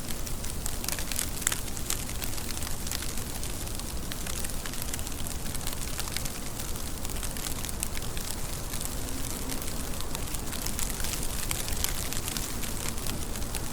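Steady rain, with a dense patter of separate drops over a low rumble.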